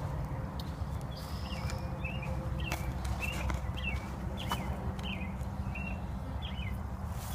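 A bird calling over and over in short high notes, roughly two a second, with scattered footsteps on a wood-chip path and a low rumble of wind or handling on the microphone.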